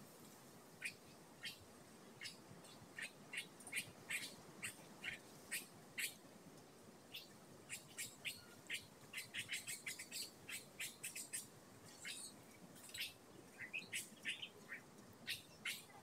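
Small birds chirping: many short, high chirps coming irregularly, several a second at their thickest in the middle, over a faint steady hiss.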